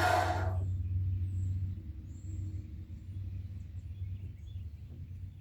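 An abrasive chop saw cutting steel square tubing falls quiet within the first half second. A low steady hum and faint bird chirps are left, and the hum weakens a little after about two seconds.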